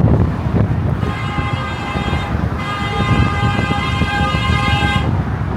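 A horn sounds two steady, unwavering blasts, the first about a second in and the second longer, running until near the end, over wind and traffic rumble.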